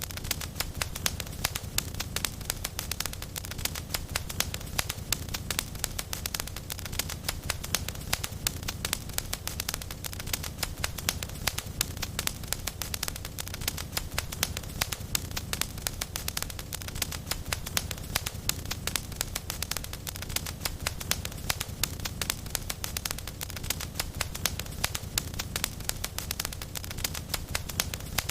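Wood fire crackling in a fireplace: dense, irregular snaps and pops over a low, steady rumble of the flames.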